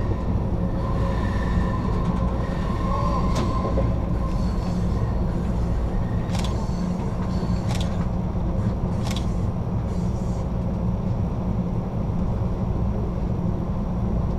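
Passenger train running on the rails, heard from inside the rear car: a steady low rumble with a faint wheel squeal in the first few seconds and several sharp clicks.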